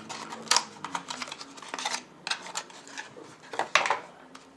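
Scattered light clicks and rattles of hands handling a desktop CPU and its plastic packaging, about eight sharp taps spread unevenly over a few seconds.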